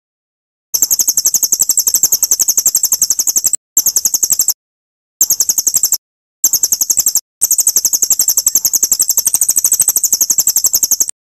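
A songbird's very high-pitched, rapid trill of about eleven notes a second, in five runs broken by short clean gaps, the last run about four seconds long. It is a bird-song training recording (masteran) for murai batu, edited so it stops dead between runs.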